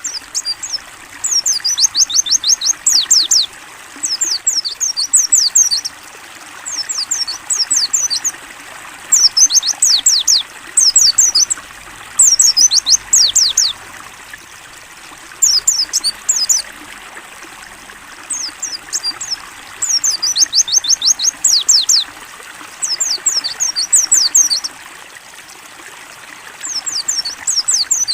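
A white-eye (pleci) singing loud, repeated bursts of rapid, high, downward-sliding notes, each burst one to two seconds long with short pauses between. Steady trickling water runs underneath.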